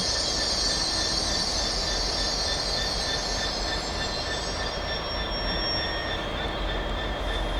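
A train moving on the rails with a high wheel squeal over a steady rumble; the squeal fades out about halfway through.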